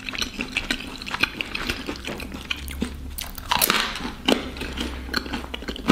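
Close-up biting and chewing of a gato patate, a sweet potato dumpling with coconut filling: a run of short crunchy crackles, thickest about three and a half to four and a half seconds in.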